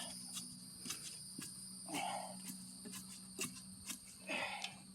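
Steady high-pitched drone of insects, with scattered light knocks and two brief muffled sounds, about two seconds in and near the end.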